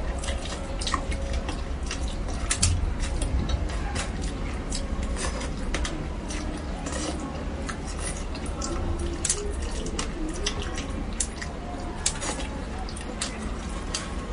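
Close eating sounds of spicy braised fish: wet chewing and mouth noises with many short clicks of utensils against dishes scattered throughout.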